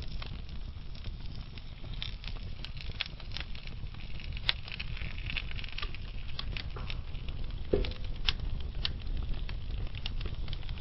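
Wood fire burning slowly in a fireplace: a steady low rumble of flames under irregular crackles and snaps of burning logs, with a louder pop about three-quarters of the way through.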